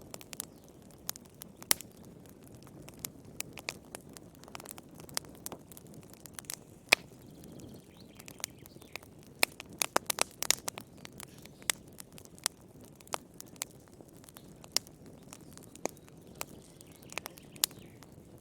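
Wood fire crackling in a fireplace: irregular sharp pops and snaps over a low, steady hiss, with a quick run of louder pops about halfway through.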